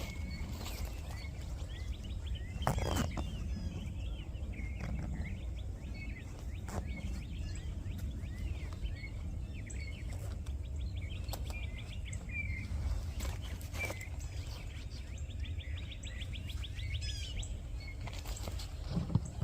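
Songbirds chirping, with several fast trills, over a steady low rumble. A few sharp knocks stand out, the loudest near the end.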